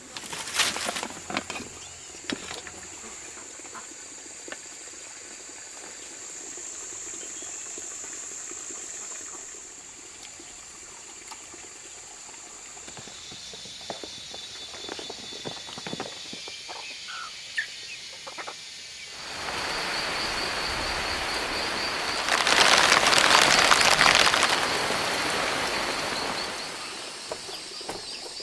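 Rainforest ambience with a steady high-pitched buzzing call, scattered taps and knocks, and a loud rushing noise that swells about twenty seconds in, lasts several seconds and then fades.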